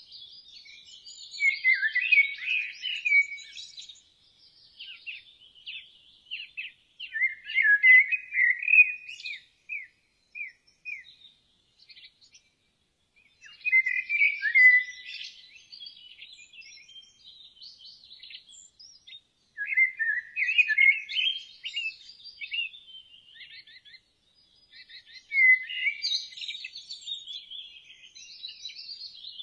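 Songbirds singing: bursts of chirping song come about every six seconds, with quieter twittering between them.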